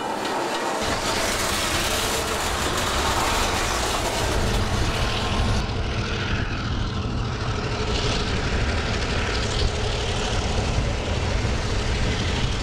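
Freight train moving by, a steady low rumble that comes in about a second in and holds.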